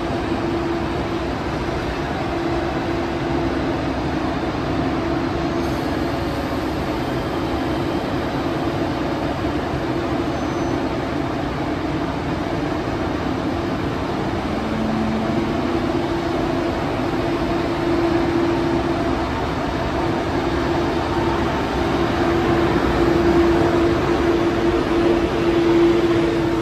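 ICE 2 high-speed electric train running with a steady electrical hum and fan noise, holding two steady tones. It gets a little louder near the end.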